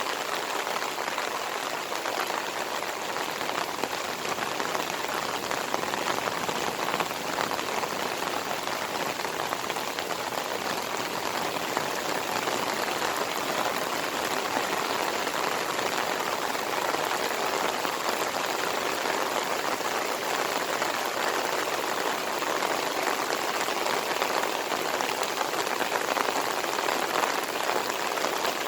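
Steady monsoon rain pouring and pattering on surfaces, a dense even hiss of drops with no let-up.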